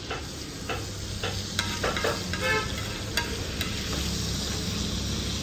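Egg masala frying and sizzling in butter and cow ghee in a pan, with a metal spatula stirring, scraping and tapping against the pan several times.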